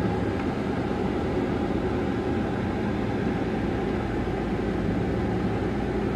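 Steady cabin noise inside a moving vehicle: engine and road rumble with a low hum, and the air conditioning blowing on max.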